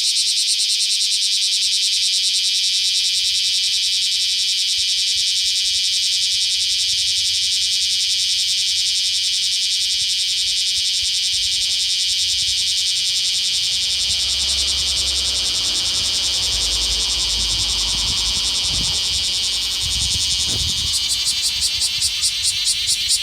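Cicadas singing: a loud, steady, high-pitched buzz that does not let up, with a low rumble underneath for several seconds in the second half.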